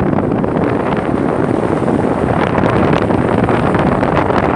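Strong storm wind buffeting a microphone: a loud, steady rumbling rush.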